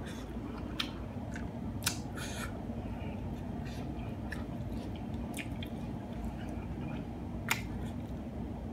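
Mouth chewing and crunching a hard-shell taco, with a few scattered short, crisp crunches over a low steady hum.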